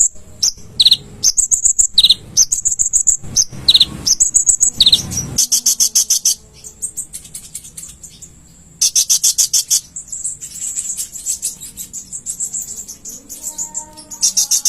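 Brown-throated sunbird (konin) singing: rapid high chirps, each phrase ending in a short falling note about once a second, then breaking into fast, dense high trills in bursts with a brief lull about halfway through.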